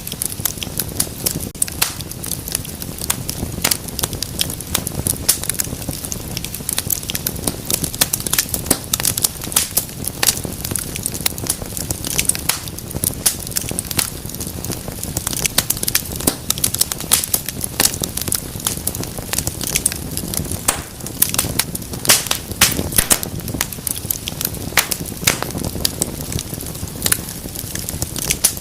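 Wood fire in a fireplace crackling, with frequent sharp pops and snaps over a steady low rumble of flames.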